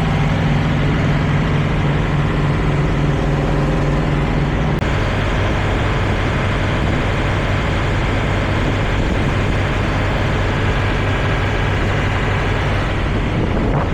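Peterbilt 379 semi truck's diesel engine idling steadily, with wind on the microphone; the low engine hum shifts in tone about five seconds in.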